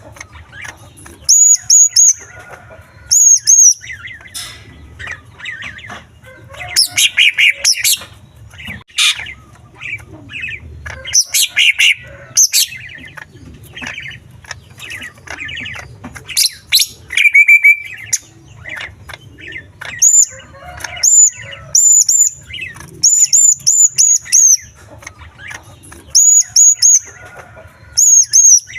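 Greater green leafbird (cucak ijo) singing a loud, varied song packed with mimicked small-bird calls. Short groups of high chirps repeat over and over between bursts of rapid warbling.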